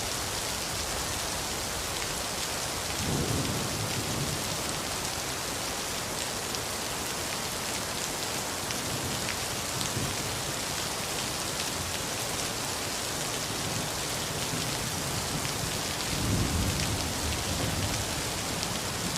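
Steady rain falling on a street, with low rumbles of thunder about three seconds in and again near the end.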